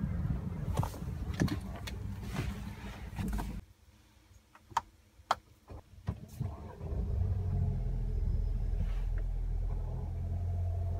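Mercedes-Benz A-Class 1.33-litre four-cylinder petrol engine starting about seven seconds in and then idling steadily, heard from inside the cabin. Before that, outdoor noise and clicks with the driver's door open cut off suddenly, and a few sharp clicks sound in the quiet cabin just before the start.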